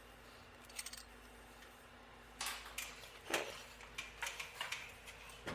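Metal hand tools and pipe fittings clinking and scraping as they are handled. A couple of light clicks come early, then a busier run of short clinks and scrapes fills the second half, over a low steady hum.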